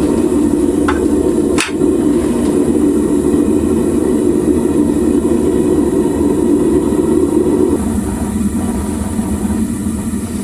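Homemade propane furnace burning, a loud steady rush of flame, with two short sharp clicks about one and one and a half seconds in. The sound drops a little about eight seconds in.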